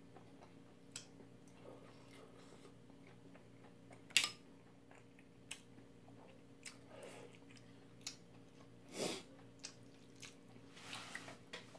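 Quiet chewing of a mouthful of jjamppong seafood noodles, with scattered light clicks of chopsticks against the food and bowl and one sharper click about four seconds in. A steady low hum runs underneath.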